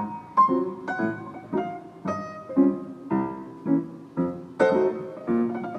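Jazz piano intro: a recorded piano plays a run of short struck chords, about two a second, each ringing briefly before the next.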